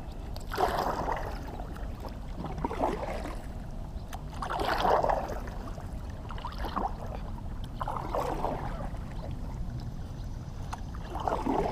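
Kayak paddle strokes dipping and splashing in calm water, a soft swish about every two seconds as the boat is paddled slowly.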